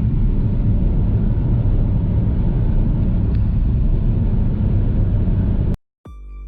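Steady low rumble of a car driving, engine and road noise, which cuts off abruptly near the end; a few struck musical notes begin just after.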